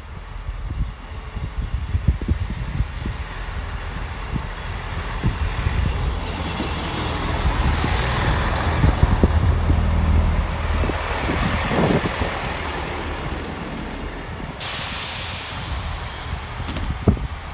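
A train running through the station: a deep engine drone and wheel rumble with repeated knocks over the rails, building to a peak about nine seconds in and then easing. A sudden hiss starts near the end.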